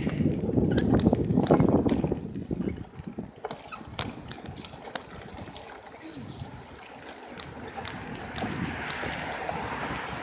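Riding a bicycle: wind rumbling on the microphone for about the first two seconds, then irregular clicking and rattling from the bike, with a hiss of tyres on the road growing near the end.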